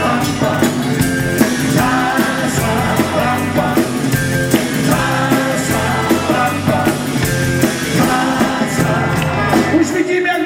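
Rock and roll band playing live with a steady drum beat, bass and instruments between sung lines; the low end drops out briefly near the end.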